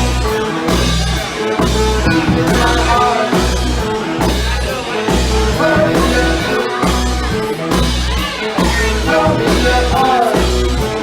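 Polka band music with a steady, pulsing bass beat and drums under melody lines.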